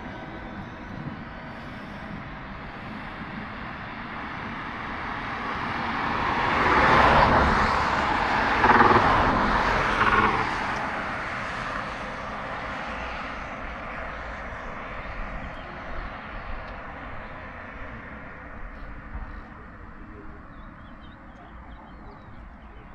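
A vehicle passing by: steady road noise grows louder, peaks about a third of the way in, and fades away slowly.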